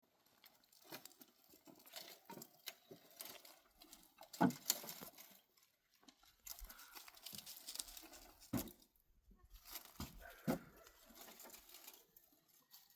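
Irregular rustling and crackling with scattered sharp knocks, the loudest about four and a half seconds in.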